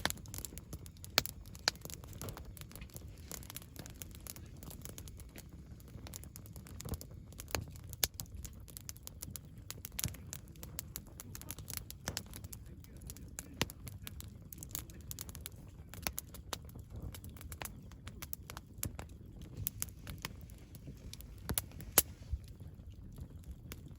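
Wood campfire crackling: irregular sharp pops and snaps, a louder pop about a second in and another near the end, over a low steady rumble.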